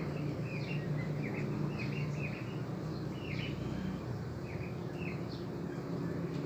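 Birds chirping in the background: short high chirps, several each second, over a steady low hum.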